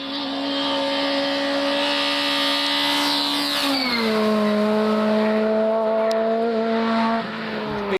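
Rally car passing at speed, its engine held at a steady high note. The note rises in loudness as the car approaches and glides down in pitch about halfway through as it goes by.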